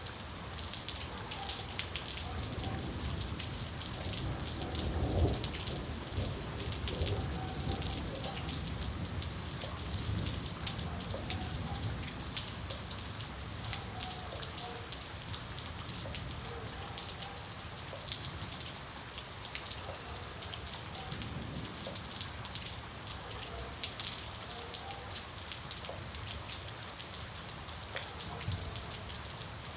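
Steady rain falling, with many small drops tapping through it. A low rumble of thunder swells about five seconds in, and a weaker one comes around twenty seconds in.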